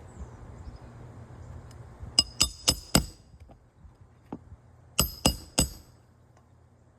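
Hammer blows on a steel snake tool, driving a roofing nail in under a shingle: four quick metallic clinks about two seconds in, then three more about five seconds in, each with a short ring.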